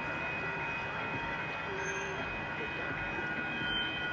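Train out of sight: a steady rumble with several steady high-pitched tones held over it.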